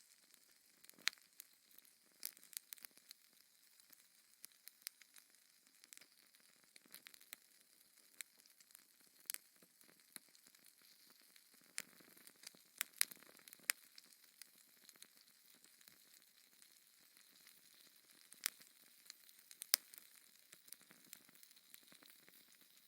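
Wood fire in a fireplace crackling: irregular sharp pops and snaps over a soft hiss, with a few louder snaps about halfway through and again near the end.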